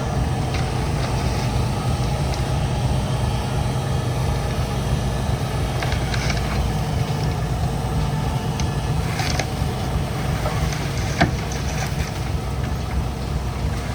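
Diesel engine of heavy earthmoving equipment running steadily, with a few faint clanks and one sharp knock about eleven seconds in.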